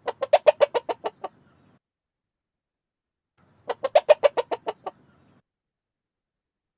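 Hen clucking: two quick runs of about ten clucks, each lasting over a second, a couple of seconds apart.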